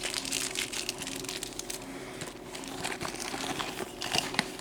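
Plastic bags of small spare parts crinkling and rustling as they are handled, with light irregular ticks.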